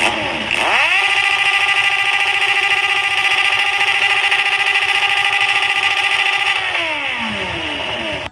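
Motorcycle engine revved up quickly and held at high revs for about six seconds, then let fall back as the throttle is released.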